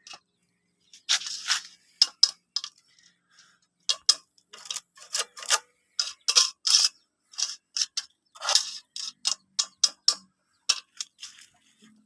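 Irregular sharp clicks and short crackles, scattered unevenly with pauses between them, as of something being handled; no motor is running.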